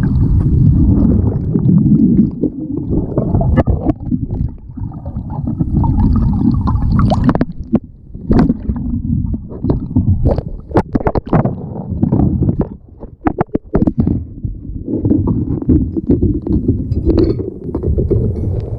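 Muffled sloshing and rumbling of surf water around a kayak close to the microphone, with a run of sharp knocks and bumps from about eight to fourteen seconds in.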